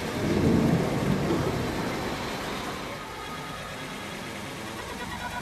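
Thunder rumbling: a low swell that peaks about half a second in and fades over the next two seconds, over a steady background hiss.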